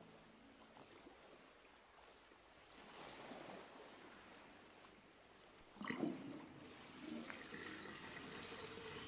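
Faint trickling water, with a sudden louder sound about six seconds in.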